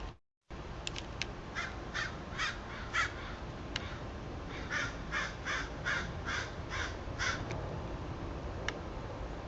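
Crow cawing in two runs of harsh caws: four, then a pause, then about seven more in quick succession. A few faint sharp clicks fall between the calls.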